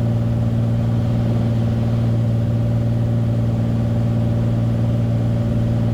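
Beechcraft Bonanza's piston engine and propeller droning steadily in cruise, heard inside the cockpit.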